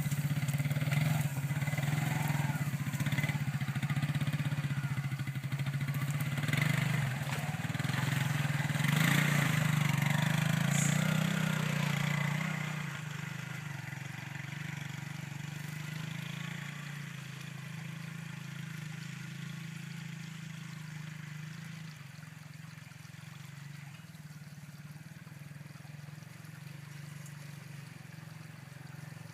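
ATV engine running, working harder with a louder, busier sound for about the first twelve seconds, then settling to a quieter steady run for the rest.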